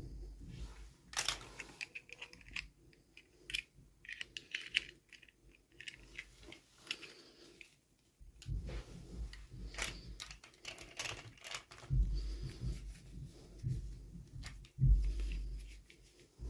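Toy packaging being handled and opened by hand: irregular crinkling, tearing and clicking of plastic and cardboard, with a few dull thumps, the loudest about twelve and fifteen seconds in.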